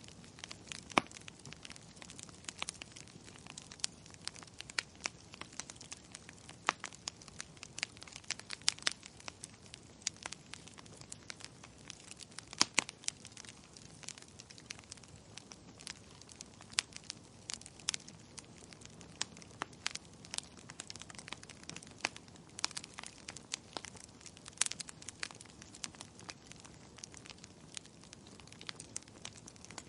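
Wood fire in a fireplace crackling, with irregular sharp pops and snaps over a soft steady hiss; a few pops stand out louder, one about a second in and a couple around the middle.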